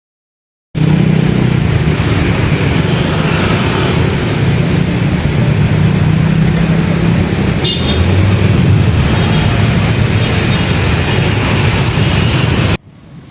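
Loud road traffic with a steady engine hum. It starts suddenly after a moment of silence and cuts off abruptly near the end, leaving a much quieter background.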